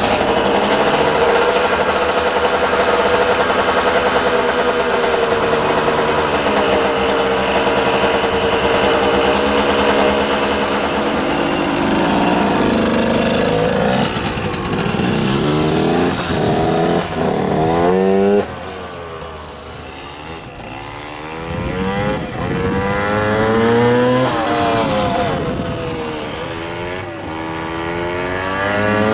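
KTM 200 EXC two-stroke engine, its top end freshly rebuilt, running at steady revs for about twelve seconds and then revved in repeated rising sweeps through the gears. About 18 seconds in it suddenly turns quieter, the rising and falling pitch carrying on.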